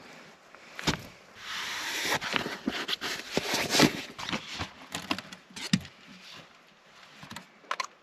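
Close rustling and handling noises: bedding and fabric being moved, with scattered clicks and light knocks. A longer burst of rustling comes about a second and a half in.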